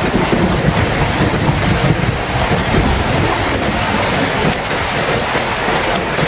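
Steady heavy rain falling, with a low rumble of thunder underneath that fades after about four seconds.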